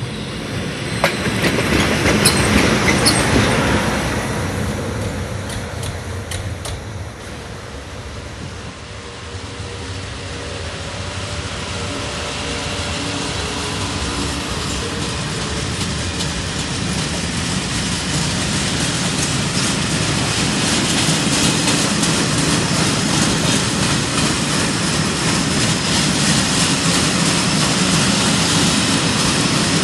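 A train running past on the line: a brief loud rush a couple of seconds in, then a rumble that builds steadily and stays loud, with wheels clattering over the rail joints in the later part.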